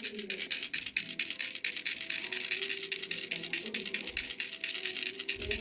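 Baby rattle shaken continuously: a fast, even run of clicking rattles, about ten strokes a second.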